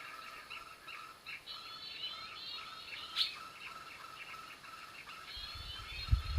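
Songbird calling in quick chattering phrases of rising and falling notes, repeated without a break, with a sharp click about three seconds in and low bumps near the end.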